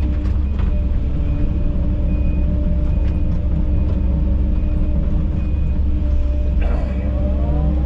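Heavy equipment diesel engine running steadily under load, with a short high beep repeating about every half second, like a backup alarm.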